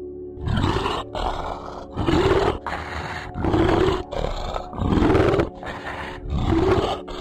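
A large animal roaring in a repeated series: five loud roars about a second and a half apart, each rising briefly in pitch and then held, with shorter, quieter calls between them.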